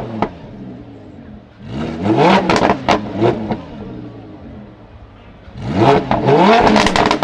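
Lamborghini Huracan LP610-4's naturally aspirated V10 through a Frequency Intelligent aftermarket exhaust, revved while standing: idle, then a burst of quick rising blips, back down to idle, then a second burst of blips near the end.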